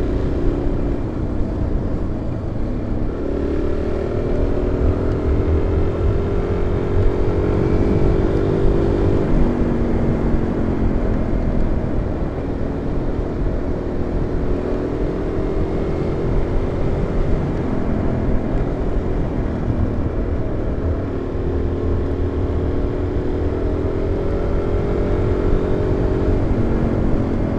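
Single-cylinder supermoto motorcycle engine under way, heard from a mic inside the rider's helmet: the engine note climbs as it pulls, drops at a gear change about nine seconds in, and climbs and drops again near the end. Heavy wind buffeting rumbles on the mic throughout.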